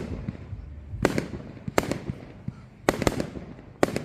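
Fireworks going off: about six sharp bangs at irregular intervals of roughly a second, some in quick pairs, each with a short echoing tail.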